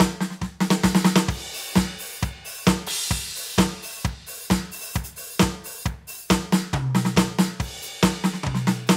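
Roland TD-17KVX electronic drum kit played through its sound module: a fast groove of kick, snare and hi-hat, with a crash cymbal ringing out about a second and a half in.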